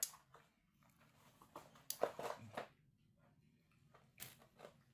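Baby monkey making faint short smacks and a brief squeak, in three spaced bursts.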